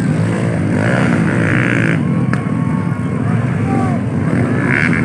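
Motocross dirt bike engines running and revving, with rising and falling pitch.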